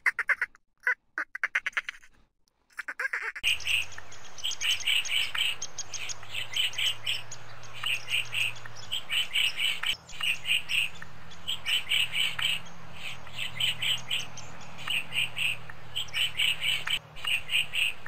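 Dolphin clicks and squeaks for about three seconds, in short quick pulses. Then a red-bellied woodpecker calls over and over: short runs of quick, high notes, about one run a second, with a few faint taps between.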